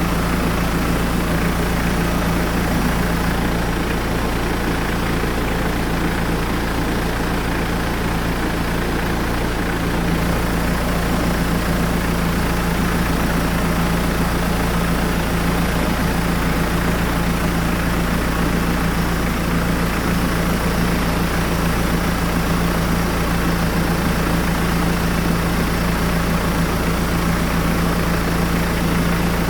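Hyundai D4BH 2.5-litre four-cylinder turbodiesel idling steadily while its oil pressure is checked.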